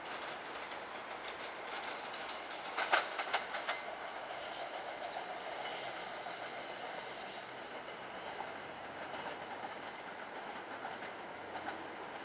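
SEPTA Silverliner IV electric commuter train running away into the distance, its wheels clacking over rail joints, with a quick cluster of clacks about three seconds in over a steady rumble.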